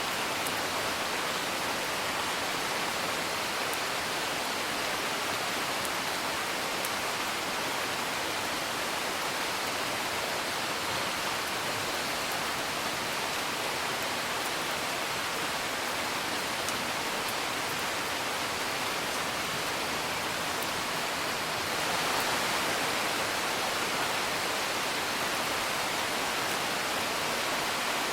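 Steady rain, an even hiss, with a few faint scattered crackles from a wood fire; it gets slightly louder about three quarters of the way through.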